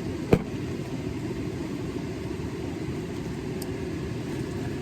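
A beer being opened: one sharp click about a third of a second in, over a steady low rush of water.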